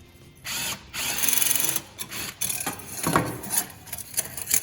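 Power driver spinning in two short runs, the second about a second long, backing out a motorcycle exhaust heat-shield fastener. Then a string of light metallic clicks and clatters as the loosened sheet-metal heat shield is handled.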